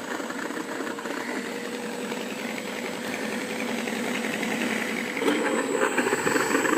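Mr Sound electronic sound system in an RC P-40N model playing a simulated warbird piston-engine idle through its small onboard speaker: a steady, rough running sound with a thin steady whine, getting slightly louder toward the end.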